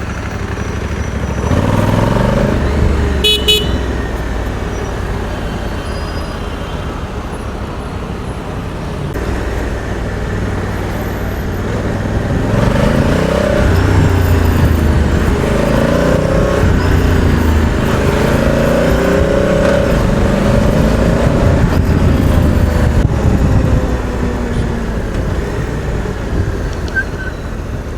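Street traffic heard from among the vehicles: engines running and revving in and out, with vehicle horns tooting.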